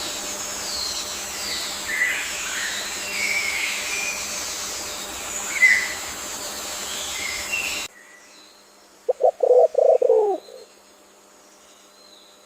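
Several wild birds chirping and singing in short high phrases over a steady hiss. Then the ambience drops abruptly, and a bird gives one low, loud call of rapid pulsed notes, about a second and a half long, that falls in pitch at the end.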